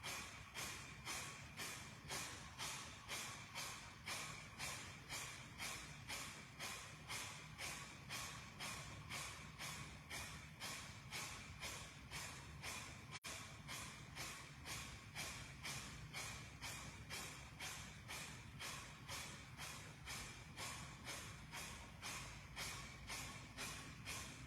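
Kapalabhati breathing: short, forceful exhalations through the nose, driven by sharp contractions of the abdomen, about two a second in a steady rhythm, faint.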